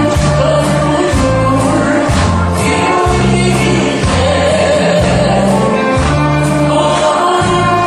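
A song sung over a loud backing track, with a bass line stepping between held notes about once a second.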